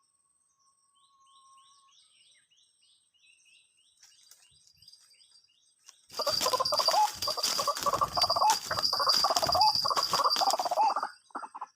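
White-breasted waterhen (ruak-ruak) calling: faint repeated short falling chirps at first, then about six seconds in a loud, harsh, wavering calling with sharp clicks through it that runs for about five seconds and cuts off abruptly near the end.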